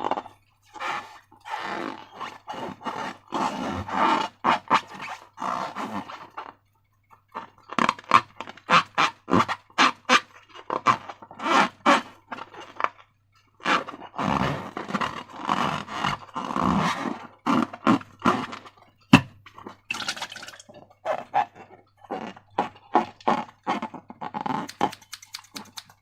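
Slime being squeezed and worked by hand: wet squelching with crackling, popping clicks in irregular bursts, broken by a couple of short pauses.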